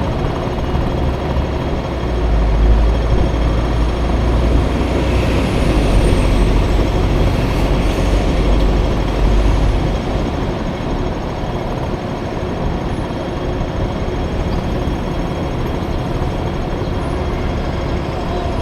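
Riding noise from a Honda Motocompo mini-scooter with a swapped-in Dio engine: engine running under way amid road and traffic noise. A heavy low rumble from about two seconds in eases off after about ten seconds.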